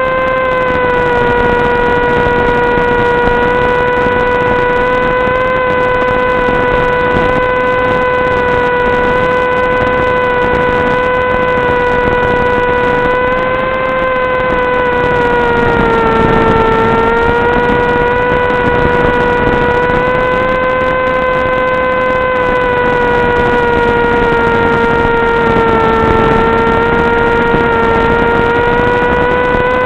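Electric motor and propeller of an FPV flying wing running at steady cruise throttle: an even whine with several overtones over a hiss, dipping slightly in pitch around the middle and again near the end.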